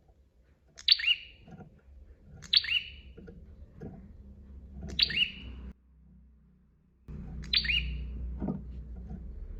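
A prenjak (prinia) giving a sharp, falling chirp four times, about every two seconds, over a low background rumble.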